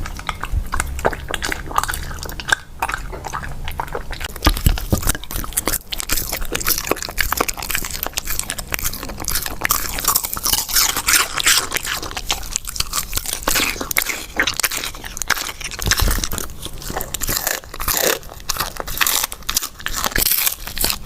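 Border collie chewing and crunching food with quick, crisp bites, one after another.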